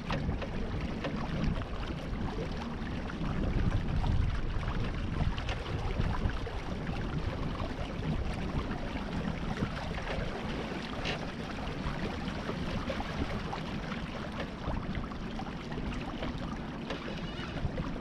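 Wind on the microphone and water rushing along the hull of a Beneteau First 20 sailboat under way: a steady rushing noise, heaviest in the low end, with a few small clicks scattered through it.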